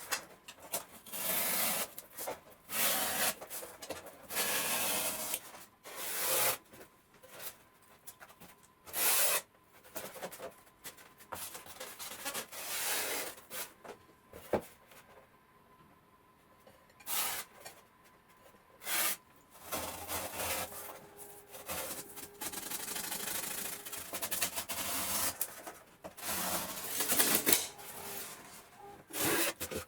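Knife scraping through sheets of extruded polystyrene foam, in irregular strokes of about a second with short pauses between them.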